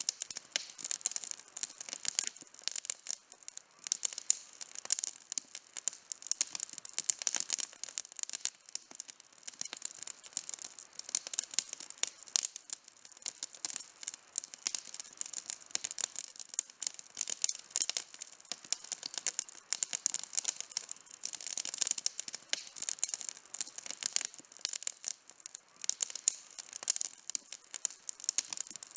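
Wood campfire burning with constant, irregular crackling and popping.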